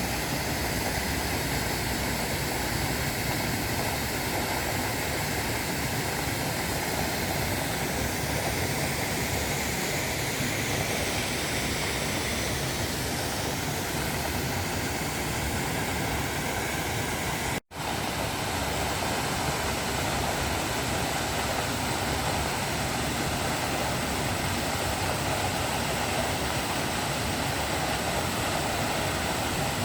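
Cucumber Falls waterfall: a steady rush of falling water, cut off for an instant a little past the middle.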